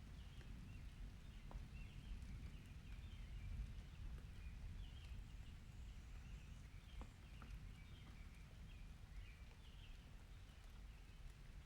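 Faint outdoor storm ambience: a steady low rumble, with scattered faint high chirps and a couple of light clicks.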